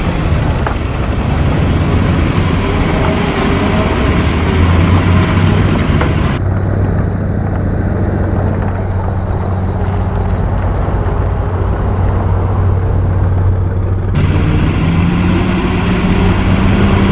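Heavy diesel engine of an earthmoving machine running steadily. The sound turns duller abruptly about six seconds in and brightens again about fourteen seconds in, and the engine note rises slightly near the end.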